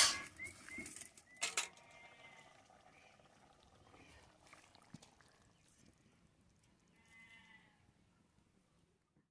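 Goat bleating: loud calls at the start and about a second and a half in, then a fainter call near the end.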